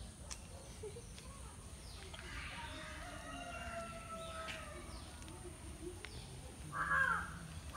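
Birds calling: short falling chirps and a longer, drawn-out call in the middle, with a louder short call near the end.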